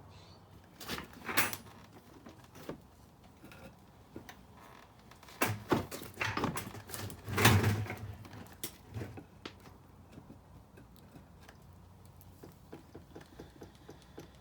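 Knocks and clatter of tools and parts being handled, the loudest about seven and a half seconds in, followed near the end by a run of light, regular ticks, about three a second.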